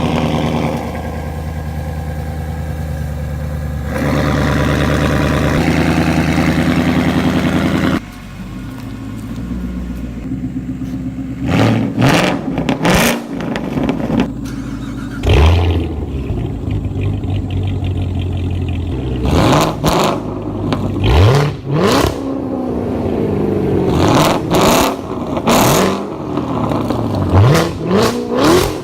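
V8 sports car exhaust with an aftermarket X-pipe system, revved in a rev battle: a steady held engine note for about the first eight seconds, then idling with a string of quick throttle blips, each rev rising sharply and dropping back, about a dozen of them.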